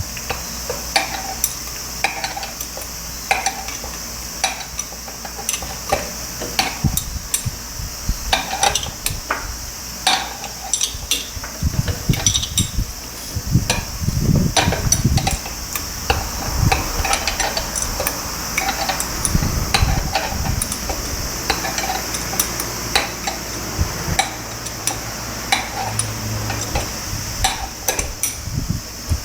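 Hand tools knocking and clinking against metal car parts, irregular clicks and knocks with a few heavier low thuds in the middle, over a steady high hiss.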